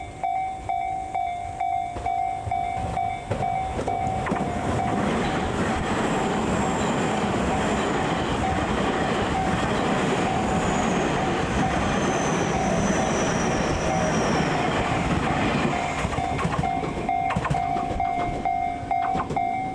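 A train passing over the rails, its roar building from about four seconds in and fading near the end, with faint high squeals. A level-crossing warning bell rings in a steady on-off pattern throughout, partly drowned while the train goes by.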